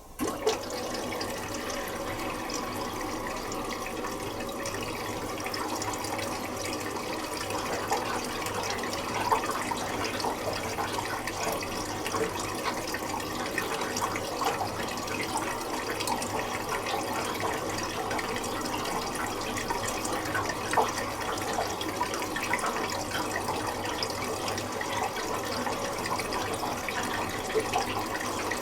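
Water rushing into a Miele Little Giant PWM 507 commercial washing machine, starting suddenly as the inlet valve opens to fill the drum for the final rinse.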